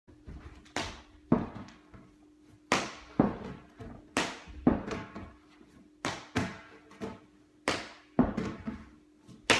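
A ball bouncing repeatedly on a hard floor, about one and a half bounces a second, the hits often coming in close pairs. A faint steady hum runs underneath.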